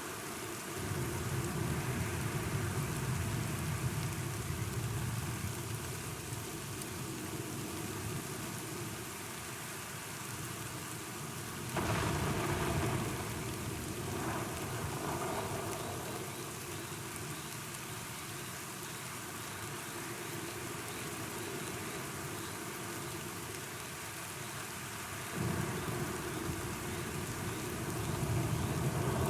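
Steady rain falling, with rolls of thunder rumbling: one swelling up about a second in, another starting abruptly about twelve seconds in, and a third coming in about twenty-five seconds in.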